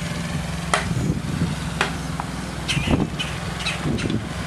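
An engine running steadily with a low hum, with a few short clicks and knocks over it.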